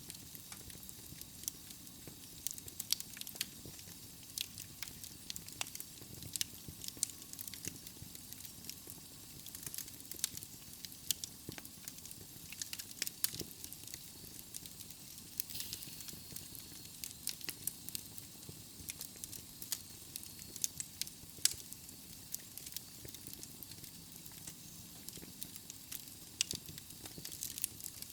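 Wood fire burning in a fireplace: logs crackling with frequent irregular pops and snaps over a steady hiss. A faint thin whistle sounds for a few seconds around the middle.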